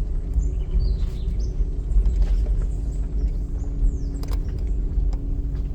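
A car driving slowly, heard from inside: a steady low rumble with a faint hum joining about three seconds in, and a few sharp knocks.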